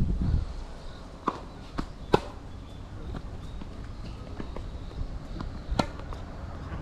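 Tennis ball knocks on a hard court during play: a few sharp hits and bounces, the loudest about two seconds in, another near the end, with footsteps between. Wind rumbles on the microphone at the start.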